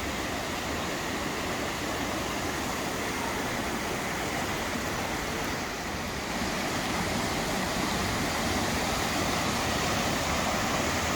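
Waterfall rushing, a steady noise of falling water that grows a little louder about six seconds in.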